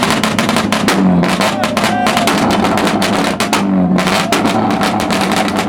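Car engine revving over and over, pitch climbing and dropping about every two and a half seconds, with a dense, rapid rattle of exhaust pops and crackles throughout.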